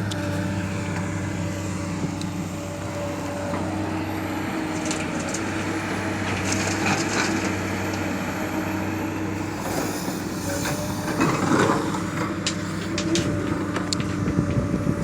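Excavator's diesel engine running steadily, with scattered crunching and knocking from the bucket working soil, heavier in the second half.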